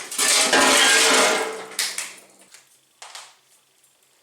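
A loud metallic clatter and scrape lasting about a second and a half, with a brief ring, as a steel air tank is handled, followed by two light knocks.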